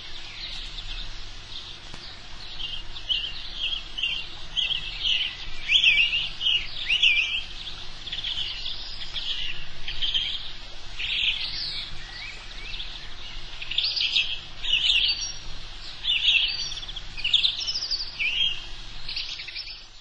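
Wild birdsong: a continuous run of quick, high-pitched chirps and trills.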